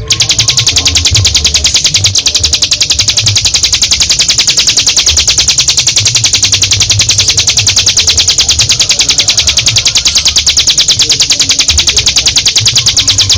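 Ciblek gunung (a prinia) singing its long 'ngebren' song: a loud, continuous, very rapid trill of sharp high notes.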